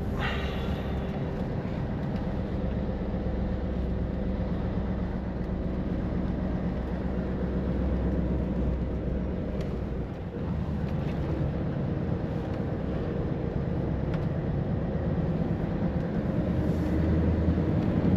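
Heavy truck's diesel engine and tyre noise heard inside the cab while cruising on the highway: a steady low drone.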